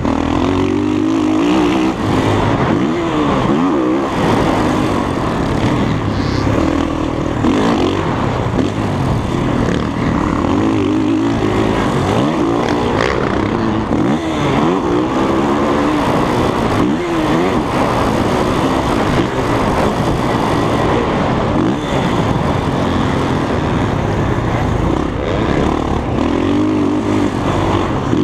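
Dirt bike engine being ridden hard, its pitch rising and falling again and again as the rider throttles up and shifts, with a steady rush of noise underneath.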